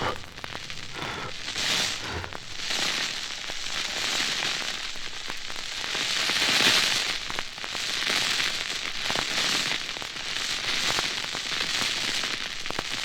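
Burning gunpowder fuse sputtering fitfully: a crackling hiss that swells and fades, loudest about halfway through.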